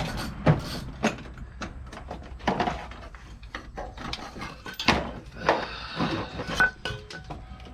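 Irregular clunks, knocks and scrapes of metal engine parts being worked loose and lifted out of a pickup's engine bay, with one sharper knock about five seconds in.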